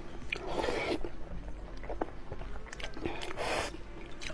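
Close-miked chewing of noodles and egg: wet mouth clicks and squishes, with two longer noisy stretches, about half a second in and about three seconds in.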